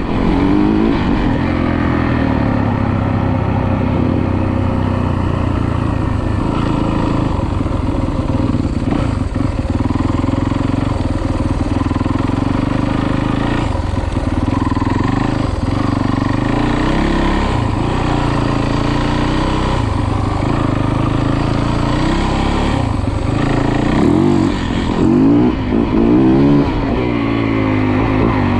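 Dirt bike engine running and revving, its pitch rising and falling again and again as the throttle is worked.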